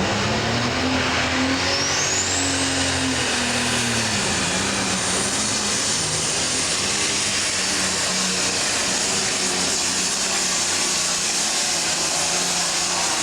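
Diesel super stock pulling tractor under full power down the track. The engine climbs in revs over the first couple of seconds and then holds high, while a high turbocharger whistle rises steeply and then stays steady and loud.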